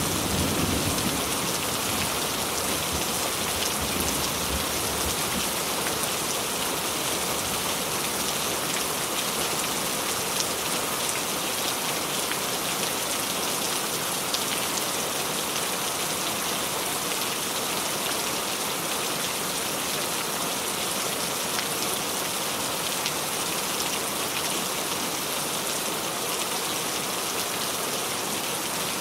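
Steady rain falling on a surface, a dense, even hiss, with the tail of a thunder rumble dying away in the first few seconds.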